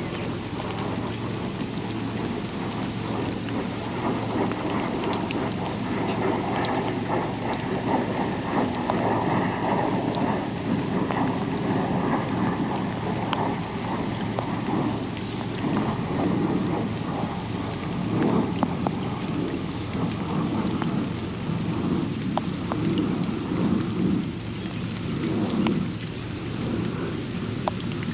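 Steady rain falling on a backyard pond and its surroundings, with single drops ticking close by. The rain swells and eases several times.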